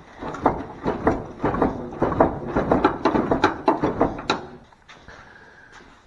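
Quick, irregular knocks and rattles of a pickup's loose front-end sheet metal being shaken and worked by hand, dying away about four and a half seconds in.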